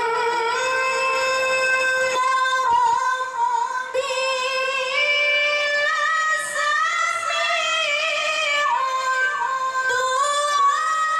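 A woman reciting the Qur'an in the melodic tilawah style with a high voice, holding long, drawn-out notes decorated with quick ornamental turns. The pitch steps higher about halfway through.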